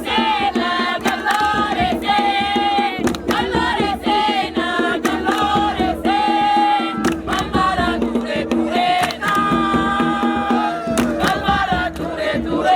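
A group of voices singing a call-and-response style campfire song, punctuated by sharp percussive hits.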